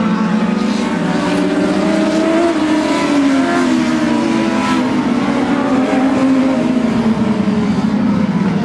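A pack of dwarf race cars running at racing speed, their motorcycle engines revving, several engine notes rising and falling over one another.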